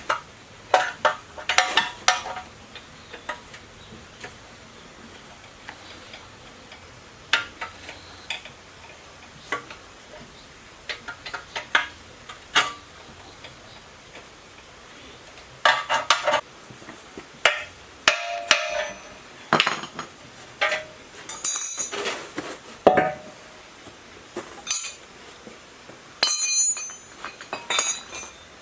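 Scattered metallic clinks and knocks of hard parts or tools being handled and set down, coming in irregular clusters with gaps of a few seconds. A few of them ring briefly with a metallic tone, the clearest about two-thirds of the way in and again near the end.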